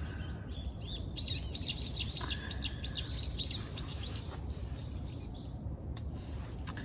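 A bird calling: a quick run of about twenty short, high, arched notes, about four a second, over a steady low background rumble.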